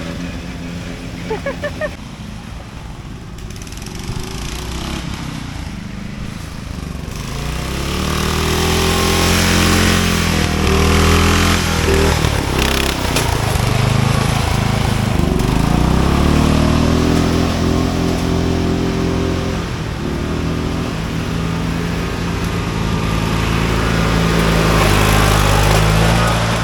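Racing lawn mower engine running, steady at first, then louder from about seven seconds in, revving up and down repeatedly.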